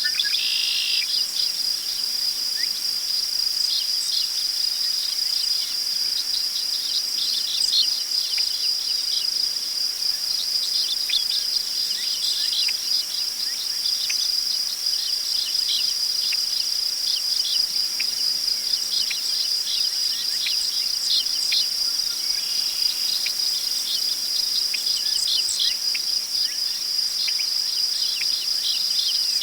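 Crickets trilling in a steady chorus, with birds chirping intermittently over it; a couple of longer bird calls stand out, one near the start and one a little past the middle.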